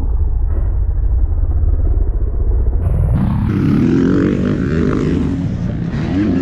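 Motocross dirt bike engines running on the track, with a nearer bike revving louder about three seconds in over a constant deep rumble.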